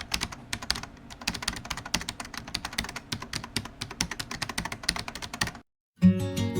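Rapid, irregular computer keyboard typing clicks that stop abruptly about five and a half seconds in. After a brief moment of silence, strummed acoustic guitar music starts near the end.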